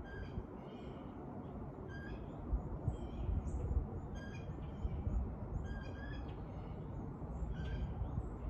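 A bird calling, a short call repeated about every two seconds, with a few fainter chirps, over a steady low rumble.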